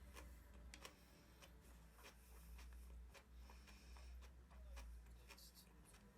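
Faint, scattered short clicks and taps at irregular intervals over a low steady hum.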